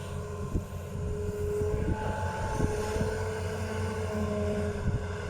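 Hitachi ZX200-5G hydraulic excavator working: its diesel engine running steadily under load with a steady hydraulic whine, and scattered knocks from the machine as it digs.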